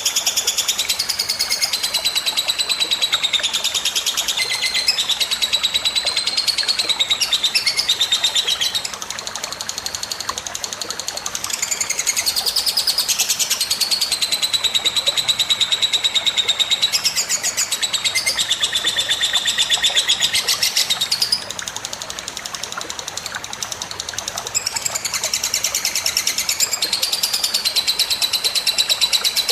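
Songbird song in rapid, high chirps and trills, kept up almost without pause. It drops back in two quieter stretches, about nine and twenty-one seconds in.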